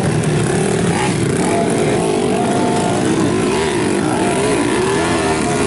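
Modified underbone motorcycle engines running, their pitch rising and falling as the revs change.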